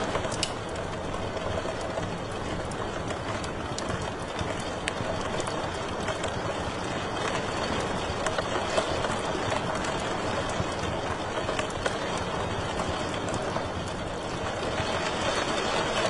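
Wood fire crackling in a fireplace: a steady rushing hiss with scattered sharp pops and snaps.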